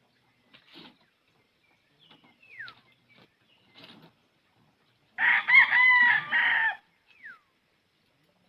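A rooster crowing once, one loud call of about a second and a half a little past the middle. Faint short falling chirps and light knocks come before it.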